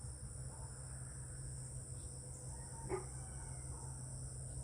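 Steady high-pitched chorus of insects, with a low rumble underneath. A single sharp click about three seconds in, and a few faint short calls.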